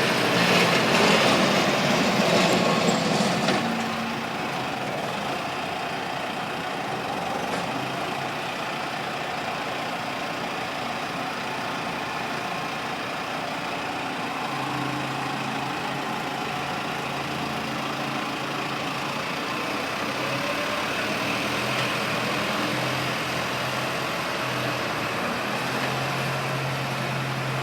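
Valtra tractor's diesel engine running, louder and with a rushing noise for the first three or four seconds, then settling to a steady note.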